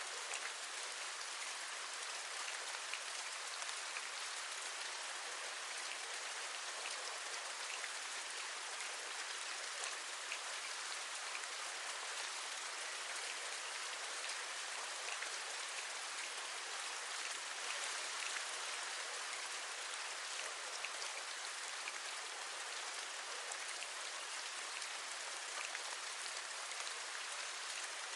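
Steady rain, with many small drops ticking against a surface.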